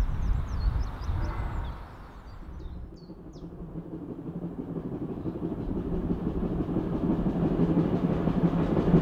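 Birds chirping over a low rumble for the first two seconds or so. Then, after a brief lull, a train that cannot be seen approaches along the heritage line: a rumble with a steady low hum, growing steadily louder.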